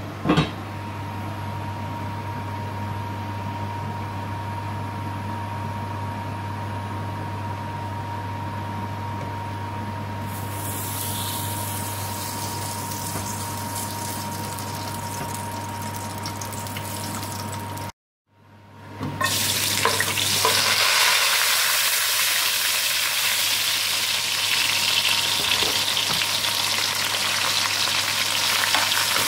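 A steady low hum with a faint tone, then a soft sizzle begins about ten seconds in as ghee melts in a hot aluminium wok. After a brief silent cut, louder steady sizzling of grated ginger, garlic and bay leaves frying in hot ghee.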